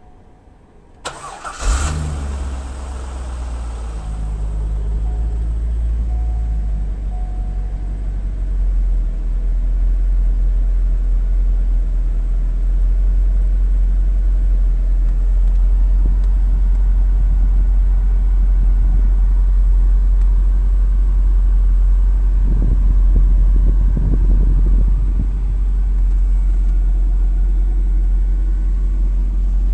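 The Corvette C5's 5.7-litre LS1 V8 is started: a brief crank about a second in, catching almost at once, then settling into a steady, deep idle.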